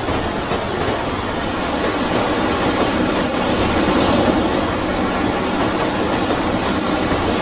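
Floodwater rushing, a steady even noise without breaks.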